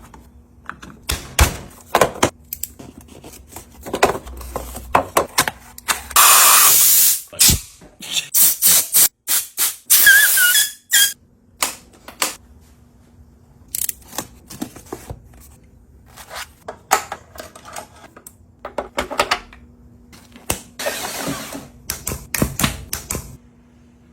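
Tools being worked: an irregular string of clicks and knocks, with three loud bursts of hissing, each a second or so long.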